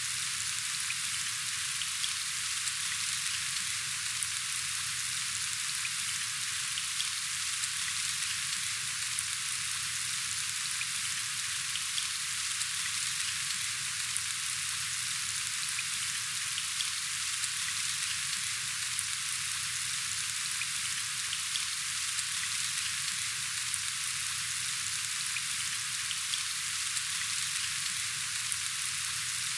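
Steady rain falling: an even hiss of many fine drops that doesn't let up.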